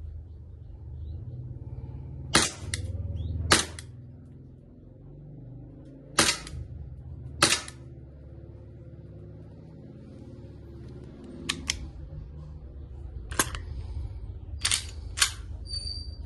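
SIG Sauer P229 green-gas airsoft pistol firing about ten sharp shots at irregular intervals, some close together in pairs.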